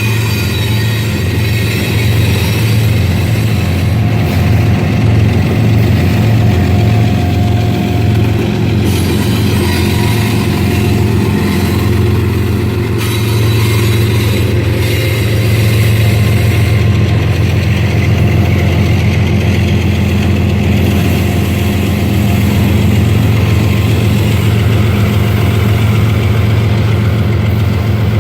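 Train's diesel locomotive engine running loud and steady, a deep low rumble that pulses rhythmically for about the first dozen seconds and then evens out.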